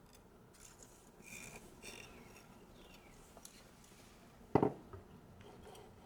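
Faint scraping of a steel knife edge on a sharpening stone, then a single sharp knock about four and a half seconds in.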